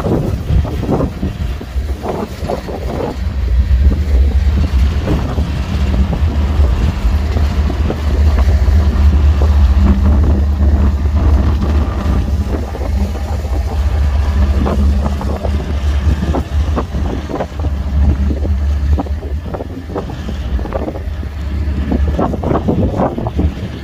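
Diesel-powered freight train running past: a loud, steady low engine drone holding for most of the stretch, with irregular gusty thumps over it.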